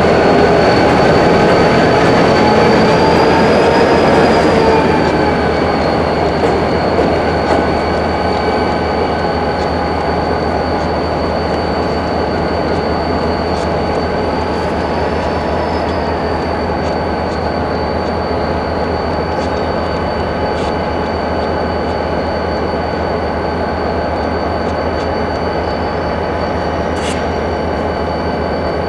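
Rail cars rolling slowly through a freight yard, steel wheels squealing in several steady, slightly wavering high tones over a low rumble. It is louder for the first five seconds, with a single sharp click near the end.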